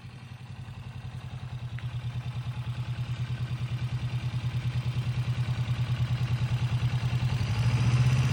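Kawasaki motorcycle engine running at low revs with an even throb, growing steadily louder and stepping up once more near the end.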